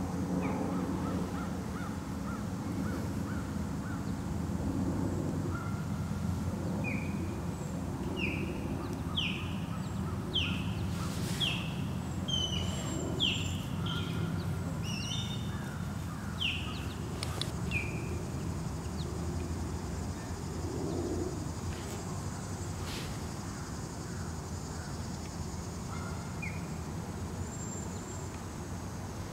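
Small birds calling in a run of short, high, downward-sliding notes through the middle stretch, with a couple more near the end, over a steady low outdoor hum.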